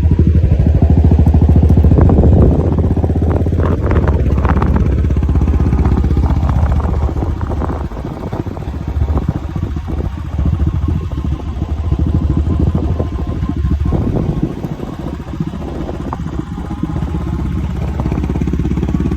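Royal Enfield Classic 500's single-cylinder engine running on the move, its firing pulses heard as a fast, even beat. It is loud for the first seven seconds or so, then eases off and picks up again toward the end.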